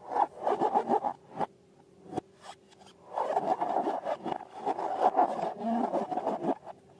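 Rubber balloons and slime being handled: a run of quick rubbing, scraping squeaks, a short burst first and a longer busy stretch after a pause, over a faint steady hum.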